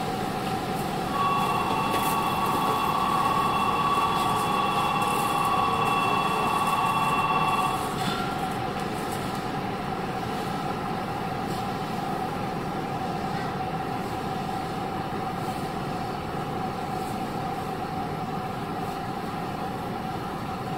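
Steady interior hum aboard a Chiba New Town Railway 9100-series electric train car. A steady electronic tone sounds over it for about six seconds, starting about a second in.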